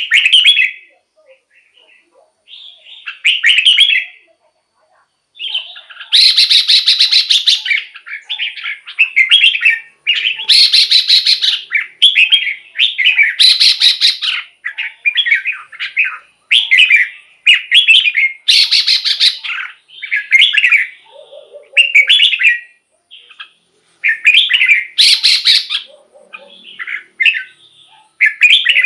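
Red-whiskered bulbul singing loud, short, repeated warbled phrases with brief pauses between them. Several harsher, buzzier notes are mixed in among the clearer ones.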